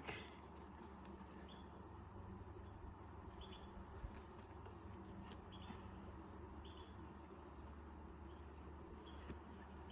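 Faint outdoor ambience of crickets trilling steadily and high, with a few short chirps now and then over a low hum.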